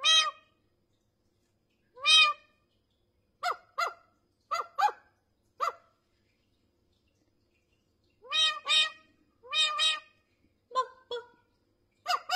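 A parrot calling: about a dozen short, honking calls, often in quick pairs, with pauses of a second or two between them.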